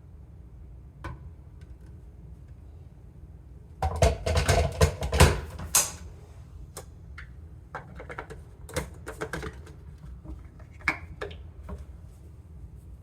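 Rapid, irregular clicking and clattering, loudest in a dense cluster about four seconds in, then scattered single clicks, over a low steady background hum.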